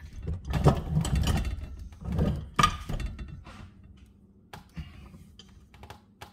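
Metal knocking and clattering from a bench vise being handled and turned, its main bolt broken off so that it sits loose. The knocks are loudest in the first three seconds, then thin out to a few light clicks.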